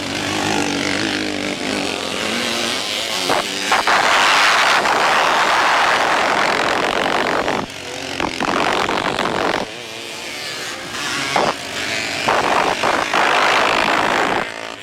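Vintage motocross motorcycles running on the track, engines revving up and falling away as bikes pass, loudest about four seconds in and again near the end.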